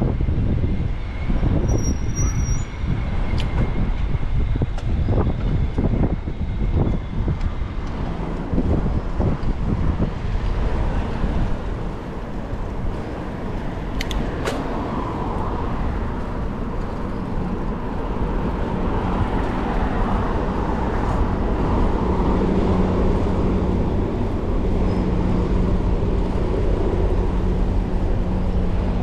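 City street traffic heard from a moving bicycle, with wind gusting on the microphone. From about halfway on, a steady engine hum from a nearby vehicle joins in.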